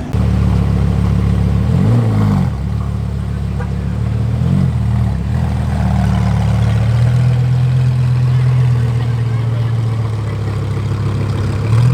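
Italian supercar engine idling loudly, with two short blips of throttle, about two seconds in and again about four and a half seconds in.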